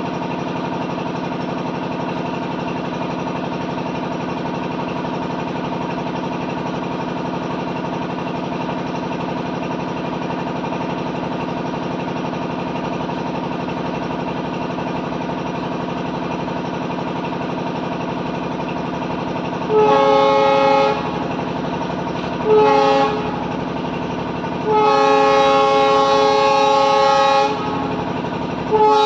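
Locomotive running with a steady, even hum, then its horn sounds from about twenty seconds in: a short blast, a shorter one, a long blast of nearly three seconds, and another starting at the very end. The horn sounds several tones at once.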